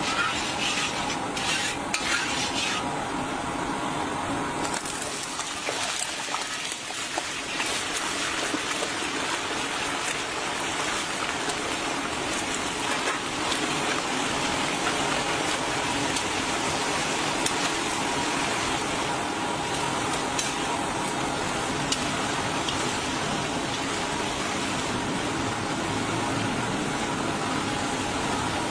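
Chicken pieces frying in hot oil in a large steel karahi, with a steady sizzle. A metal spoon clinks and scrapes against the pan a few times in the first three seconds.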